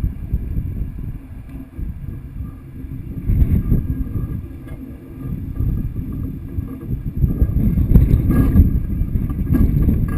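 Low, uneven rumble of wind buffeting the microphone, swelling and fading throughout, louder around the middle and toward the end.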